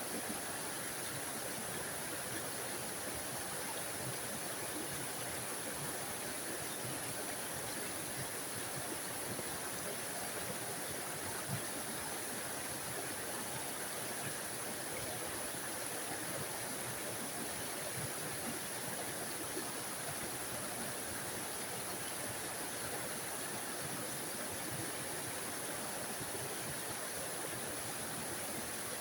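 Small forest waterfall: water spilling and splashing in a steady, unbroken rush.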